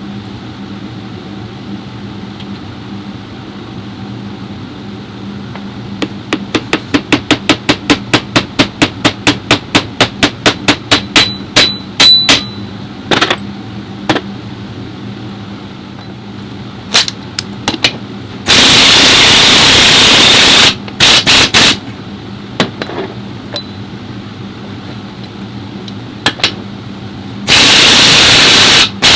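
Workshop tool sounds from a differential rebuild. A run of sharp, even hammer-like taps comes about four a second for some six seconds, then a few single knocks. Two loud bursts of hissing rush follow, each about two seconds long.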